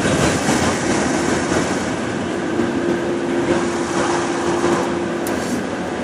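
Automatic car wash drying blowers running: a loud, steady rush of air with a faint steady hum underneath.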